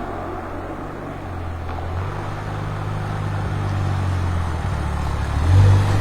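Audi RS3 Sportback's turbocharged five-cylinder engine running through an Armytrix aftermarket exhaust, its note stepping up in pitch a couple of times and growing louder, with a short surge about five and a half seconds in.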